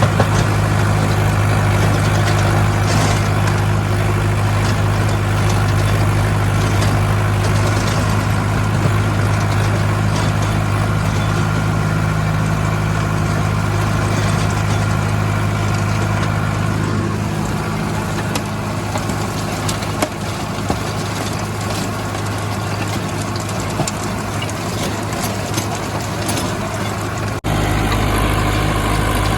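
Sonalika DI 750 Sikander tractor's diesel engine running steadily with a deep, even hum. The sound thins a little about two-thirds of the way through and breaks off for an instant near the end.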